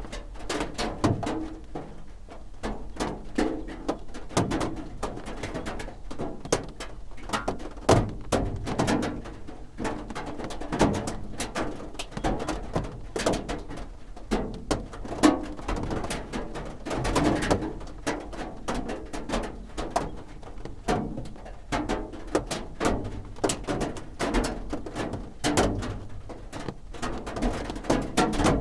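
Raindrops drumming on a roof, heard from inside: a dense, irregular patter of dull knocks and thuds that runs on steadily.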